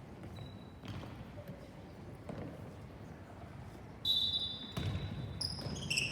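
A ball bounces on a hard indoor court floor, making a few scattered thuds. Short, high-pitched squeaks of shoes on the floor come in about two-thirds of the way through.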